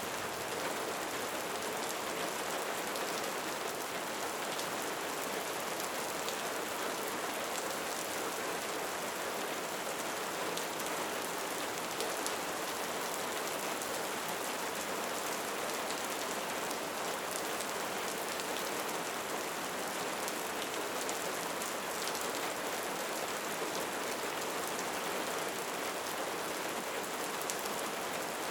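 Steady rain falling, an even hiss of countless drops with fine individual drop ticks scattered through it.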